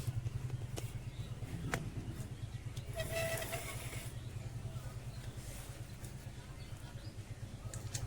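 Steady low hum of a running motor, pulsing rapidly, with a short higher-pitched sound about three seconds in and a couple of faint clicks.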